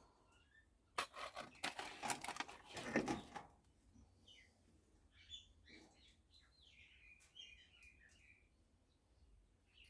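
A burst of clattering and rustling lasting about two and a half seconds, then faint bird chirps scattered through the rest.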